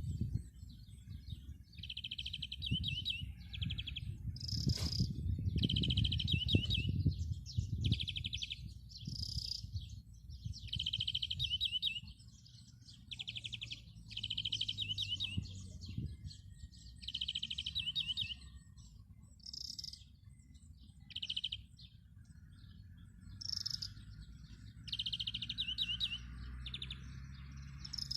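A songbird singing short, rapid trilled phrases, each about a second long and repeated every second or two, over a low rumble that is strongest in the first several seconds.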